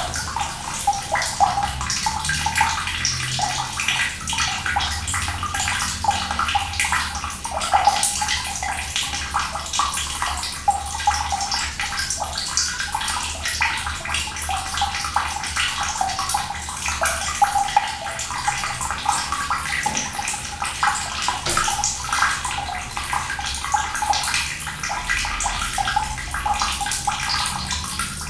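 Running water pouring and splashing in a steady, continuous stream, full of small splashes and gurgles.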